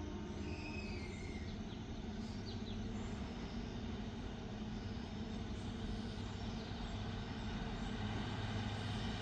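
Kalka–Shimla narrow-gauge train running steadily: a low engine hum over a continuous rumble, growing a little louder near the end.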